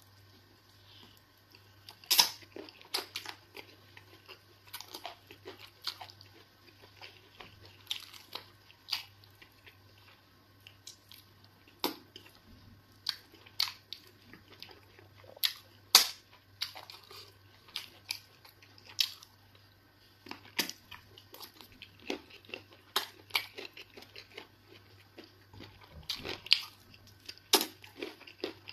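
Close-up mukbang eating sounds: a person chewing mouthfuls of eba with egusi soup, with many irregular, sharp mouth clicks from biting and chewing. A faint, steady low hum runs underneath.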